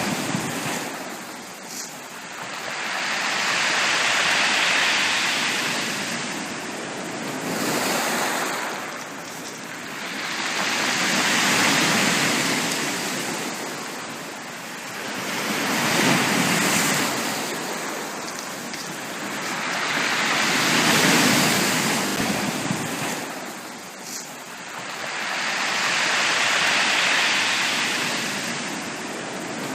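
Sea waves breaking and washing up a beach, a rushing surge roughly every five seconds that builds and falls away, about five times.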